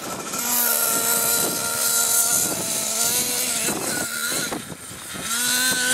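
Small nitro engine of an RC monster truck running at high revs, held steady for a couple of seconds, easing off in the middle, then revving back up near the end, with a hiss of wind and dirt over it.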